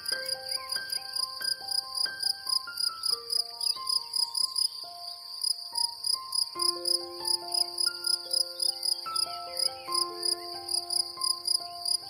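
Cicadas singing, a steady pulsing buzz, over soft instrumental music of slow, held melodic notes.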